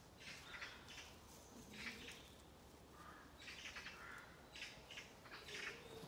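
Faint, harsh scolding calls of woodland birds, coming in about five rasping bursts.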